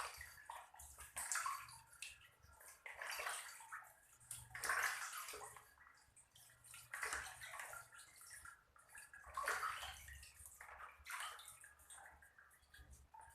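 Water sloshing and splashing in a basin as fish are washed by hand, in irregular bursts every second or two.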